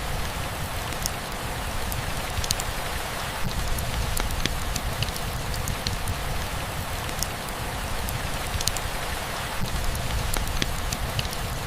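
Steady rainfall with scattered close drips ticking on a hard surface over a low, even rumble of heavier rain.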